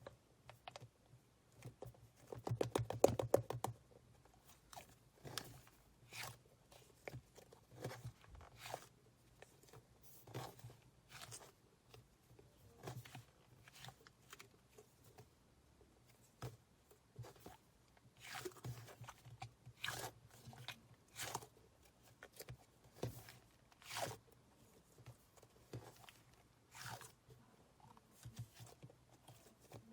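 A soft, sticky yellow chick-shaped squishy toy being squeezed and pulled in the hands, giving faint irregular sticky clicks and crackles, with a quick run of crackling about three seconds in.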